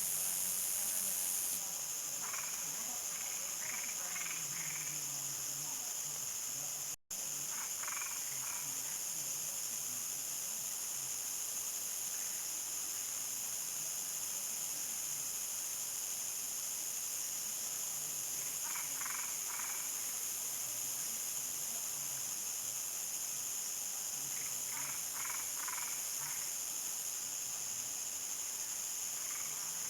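Countryside nightfall chorus: insects keep up a steady high-pitched trill. A frog calls over it every few seconds in short series of four or five quick pulses. The sound cuts out for an instant about seven seconds in.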